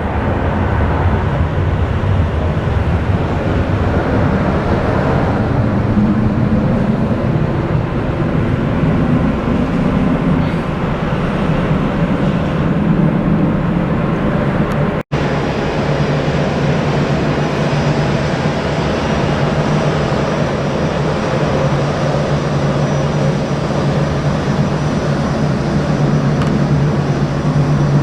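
Aircraft engine noise, a loud steady rumble. It cuts out for an instant about halfway through, after which a steady low hum runs under it.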